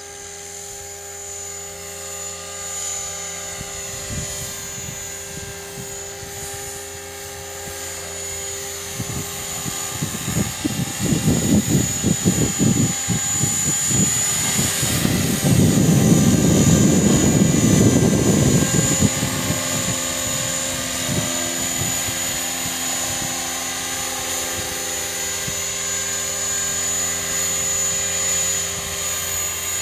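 CopterX 500 electric RC helicopter flying, its rotors and motor giving a steady high whine with a whirring drone beneath. From about nine seconds in to about nineteen seconds, loud low gusty rumbling of wind on the microphone covers the lower sound.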